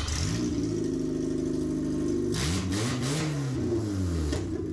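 Ford Festiva fuel-injected four-cylinder engine, sitting out of the car on a stripped-down wiring harness, running after a test start: it runs steadily, then is revved up and back down twice, once about two and a half seconds in and a smaller blip near the end. It runs well, showing the harness works.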